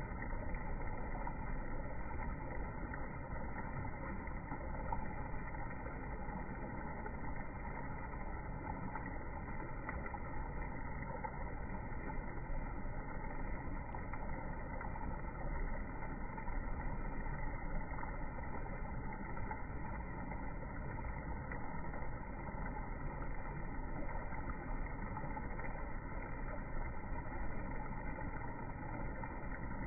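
Steady rushing noise of flowing river water, muffled and unchanging.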